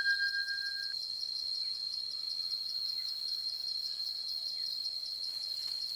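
Steady high-pitched insect trill, a cricket-like chorus with a fast regular pulse. A bell-like ring from a chime struck just before dies away within the first second.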